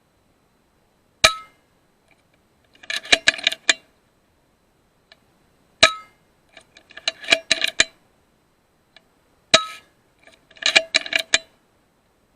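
Three shots from a .22 FX Impact M3 PCP air rifle, a few seconds apart, each a single sharp crack with a short ring. Each shot is followed about a second and a half later by a quick run of metallic clinks and rattles.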